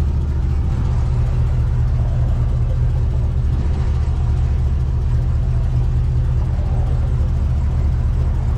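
Cadillac CTS-V coupe's supercharged V8 idling steadily with a deep, even rumble.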